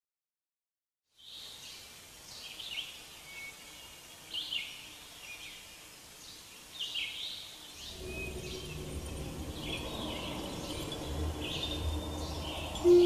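Birds chirping repeatedly in short calls over a steady background hiss, starting after about a second of silence. Past the middle, a low rumble and faint held tones come in under the calls.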